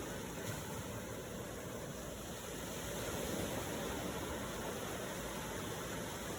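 Ocean waves washing continuously as a steady surf hiss, swelling slightly a few seconds in.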